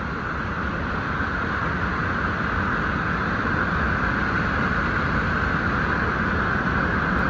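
Steady rushing noise of the Minneopa Falls waterfall on Minneopa Creek, getting slightly louder toward the end.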